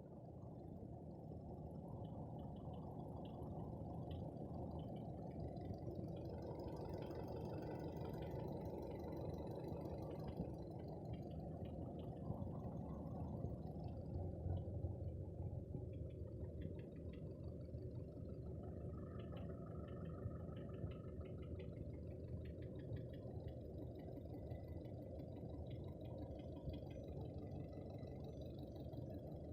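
Skoda 1.6 engine running steadily with a knock in it. The knock proved to need a piston group replacement (pistons and rings).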